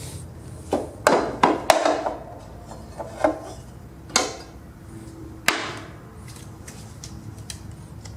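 Knocks and clanks of steel lawn mower blades and tools being handled against the mower deck: a handful of sharp, separate hits with brief ringing, a cluster about a second in and single ones around four and five and a half seconds in.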